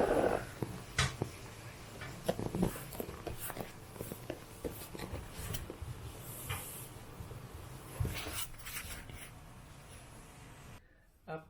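Soft rustling and scattered light knocks of a baby crawling and climbing over a person lying on the floor, with a louder burst right at the start.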